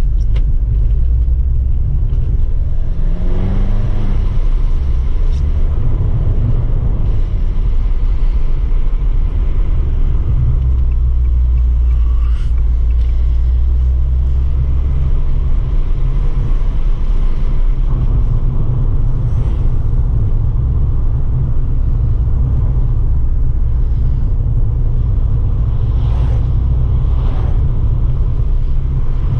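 Stock Abarth 595 Pista's turbocharged 1.4-litre four-cylinder engine and exhaust while driving: a steady low rumble, with the revs rising about three seconds in.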